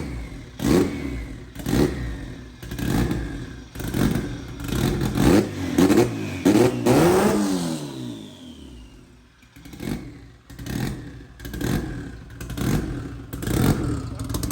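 Turbocharged B-series engine of an all-wheel-drive EK Civic revved in short, repeated throttle blips about once a second, each rising and dropping back, with a high falling whistle after them. About halfway through one longer rev falls away, then after a brief lull the blips resume.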